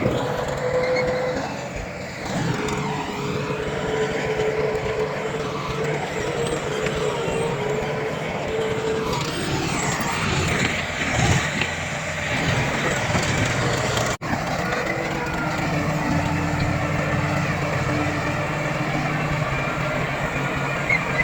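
Heavy diesel engines of earthmoving machinery running and working, their pitch rising and falling under load, with a brief dropout about two-thirds of the way through.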